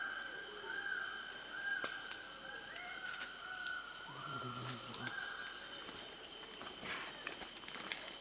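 Greater birds-of-paradise calling: a run of short, arched, repeated notes about twice a second, over a steady high drone of rainforest insects.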